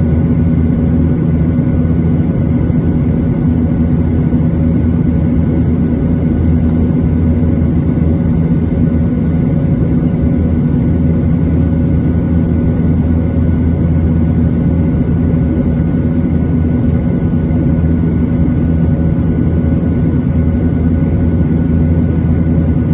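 Steady drone of a Boeing 737-800's CFM56-7B turbofan engines and airflow heard inside the passenger cabin: a loud, even low hum with a few steady tones and no change in pitch.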